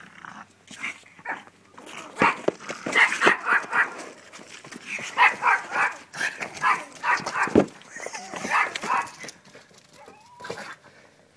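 A dog barking and yipping in quick volleys of short, high barks, several clusters in a row. Two sharp thumps stand out, one about two seconds in and one past the middle.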